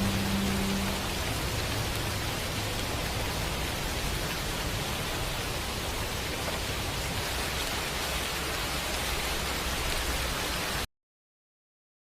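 Steady white noise hiss, with the last held note of a slow string pad dying away about a second in. The noise cuts off abruptly near the end into complete silence.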